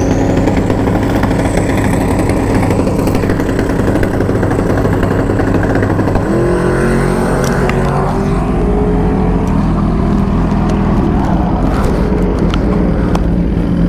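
Sport-bike engine running at a steady idle close to the microphone, its pitch stepping up a little about six seconds in, with a thin high whine held steady above it.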